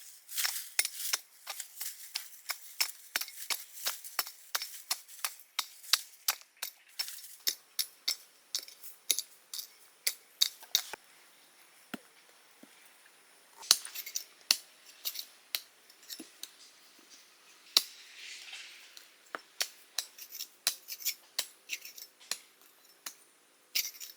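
A long run of sharp, quick knocks, about two or three a second, with a couple of short pauses.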